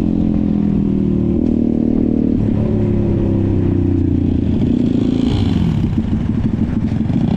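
Pit bike engine running, its pitch shifting and gliding up and down as it is revved about five seconds in.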